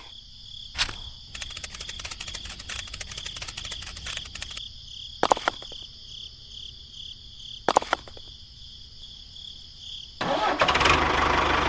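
A small motor whining steadily with rapid ticking and a few sharp clicks. About ten seconds in, a louder, steady low engine-like running sound starts up.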